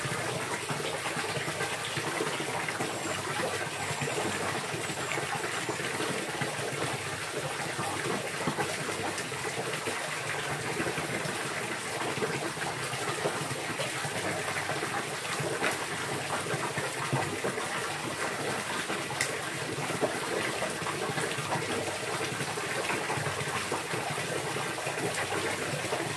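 Steady rush of running water, with a few faint high chirps about three to six seconds in.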